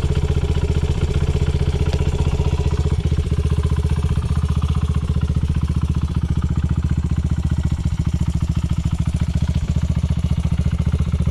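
Honda Ape 100's single-cylinder four-stroke engine, in an Ape 50 frame with a Yoshimura titanium exhaust, idling steadily with an even exhaust beat and no revving. It runs smoothly with no abnormal noise.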